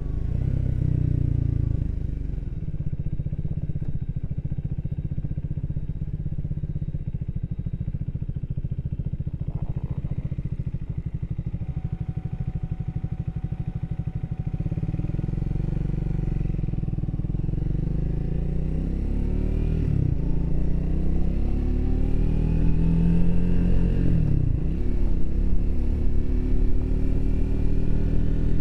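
Triumph Speed 400's single-cylinder engine running at low revs with an even pulse for about the first half. It then pulls away and accelerates, the revs climbing and dropping back twice at upshifts.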